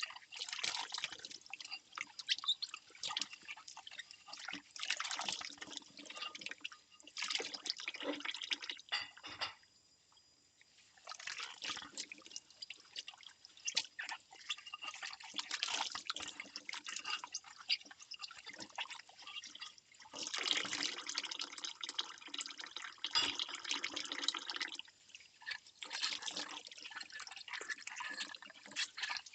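Ceramic bowls being hand-washed in a sink: water splashing and dripping, with short clinks and knocks. For a few seconds about two-thirds through, water rushes more steadily.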